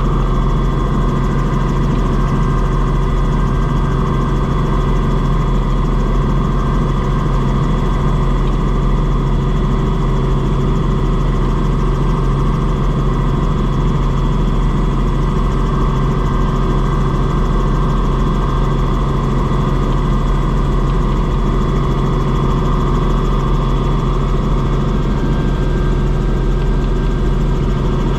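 Helicopter running steadily in flight, heard from on board: a constant low rotor and engine drone with a thin, steady high whine above it.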